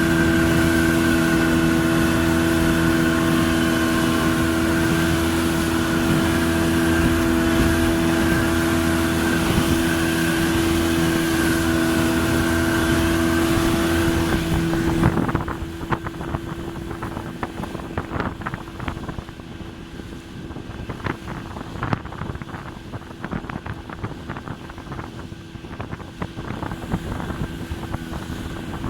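Yamaha 30 two-stroke, two-cylinder outboard motor running at a steady speed with the boat under way. About halfway through the engine sound becomes much fainter, with wind buffeting the microphone and water splashing and slapping against the hull.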